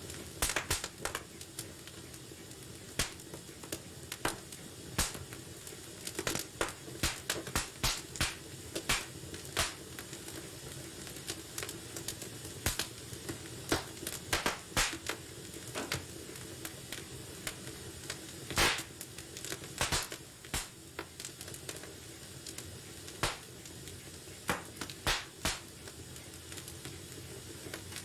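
Wood fire burning in a fireplace: a steady low hiss with irregular crackles and sharp pops, one louder pop a little past halfway.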